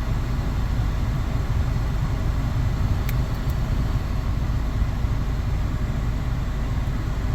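Steady rush of a 2004 Honda Accord's ventilation blower pushing air out of the vents with the air conditioning on, over the low hum of the idling engine, heard from inside the cabin.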